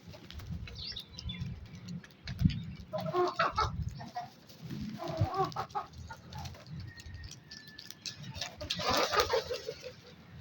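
Crows calling in three bouts of harsh caws, about three, five and nine seconds in, the last the loudest, over a low rumble.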